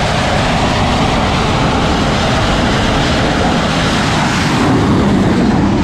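Steady jet-aircraft roar, the engine sound for a toy fighter jet, holding at an even level throughout.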